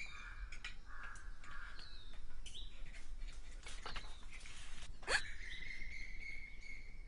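Birds chirping: a run of short chirps and quick falling whistles. About five seconds in comes a sharp sweep, then one long steady whistled note.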